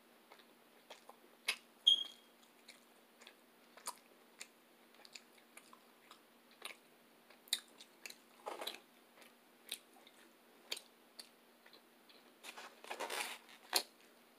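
Close-miked chewing and mouth sounds of a person eating Ethiopian food: soft chewing with scattered wet smacks and clicks, one louder smack about two seconds in. Near the end comes a longer stretch of rustling scrapes as the foam takeout tray is handled.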